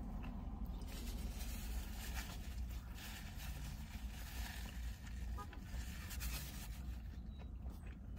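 Quiet chewing of a soft egg-and-cheese biscuit sandwich, with a paper napkin rustling against the mouth, over a steady low rumble.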